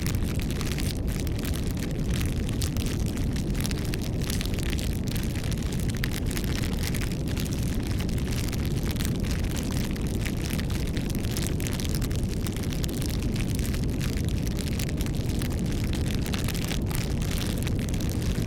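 Campfire burning: a steady low rumble of the fire with many small crackles and pops from the burning wood.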